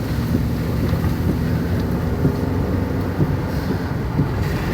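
A car's engine and road noise heard from inside the cabin while driving: a steady low rumble with a held engine hum.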